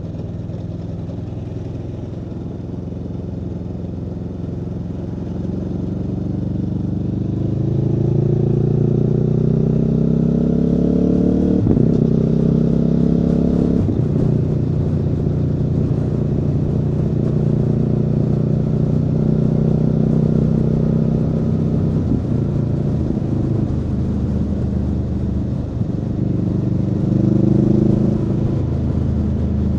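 Aprilia Tuono V4 engine pulling hard up through the gears: the revs climb from about six seconds in, break and drop at shifts about twelve and fourteen seconds in, then hold a steady cruise, with a short rise in revs near the end.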